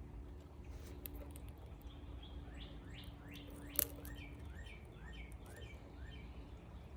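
Small birds chirping: a run of short chirps falling in pitch, about two a second, through the second half. A single sharp click comes near the middle, over a faint steady hum.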